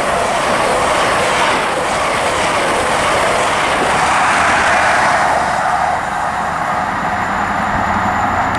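LNER InterCity 125 high-speed train, led by class 43 power cars, passing through the station at speed: a loud, steady rush of wheel and air noise that eases slightly about six seconds in.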